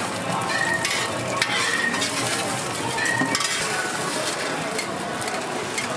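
Beaten egg and oil sizzling steadily on a hot flat griddle, with a few short clicks and scrapes from a metal spatula.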